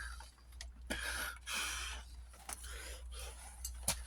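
Hand tools working on a lawn tractor's metal parts as they are unbolted: scattered light clicks and knocks with a couple of short scraping sounds, over a low steady hum.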